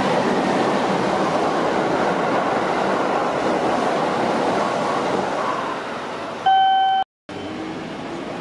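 Rumbling noise of a Kintetsu Kyoto Line train running at the station, easing off after about six seconds. A single short beep sounds about six and a half seconds in, then the sound cuts out briefly.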